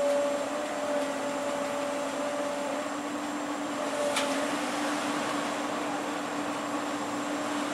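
Heavy machinery running steadily with a humming whine, a higher tone cutting in and out, and one sharp click about four seconds in.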